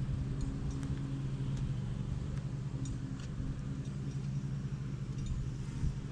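Honeybee colony buzzing in an opened hive, a steady low drone, with a few light clicks as frames are handled.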